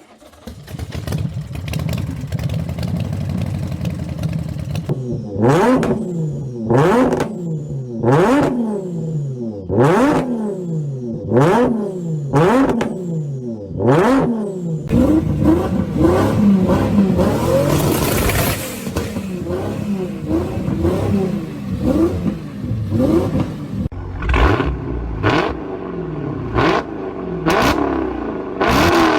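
A performance engine idling with a low steady rumble, then blipped repeatedly about every second and a half. Each blip rises and falls sharply, with a crack at its peak. After that it runs and revs unevenly, with more sharp cracks near the end.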